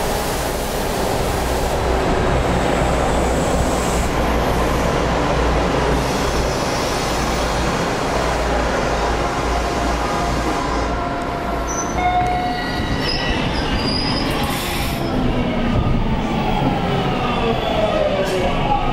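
Toronto subway train running at speed with a steady rumble of wheels on rail. About two-thirds of the way through, squealing and whining tones join in and fall in pitch near the end.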